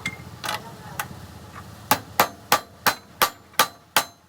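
Hammer striking metal: a few separate blows, then from about two seconds in a steady run of sharp ringing strikes, about three a second.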